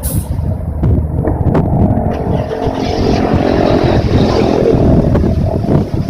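Automatic car wash machine running over a car: low machine rumble and motor hum, with the hiss of water spray building from about two seconds in.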